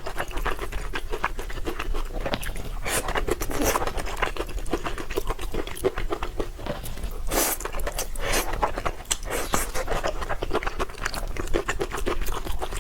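A person eating stir-fried noodles close to the microphone: rapid wet chewing and mouth clicks, with a few louder bites or slurps.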